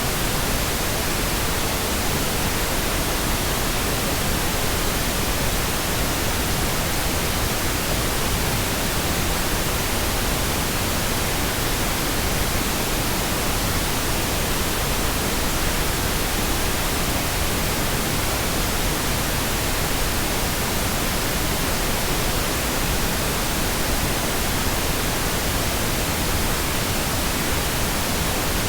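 Steady, unbroken pink noise: an even electronic hiss spread across all pitches, with no changes.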